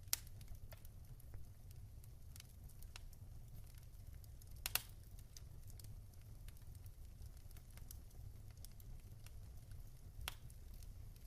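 Wood fire in a fireplace crackling, with sparse small ticks and three louder pops, one right at the start, one about halfway through and one near the end, over a faint steady low noise.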